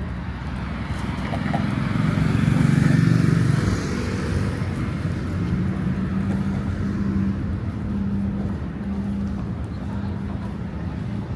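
Street traffic: a motor vehicle passing close, loudest about two to four seconds in, followed by a steady engine hum that fades slightly near the end.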